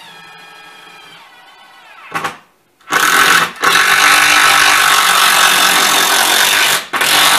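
Cordless power driver spinning a screw into the wooden railing's dowel. A faint motor whine and a short burst come first. About three seconds in it starts running loud, with two brief pauses.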